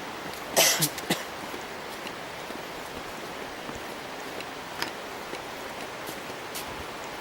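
Steady rushing noise with a sharp crunch about half a second in and a few lighter clicks after it.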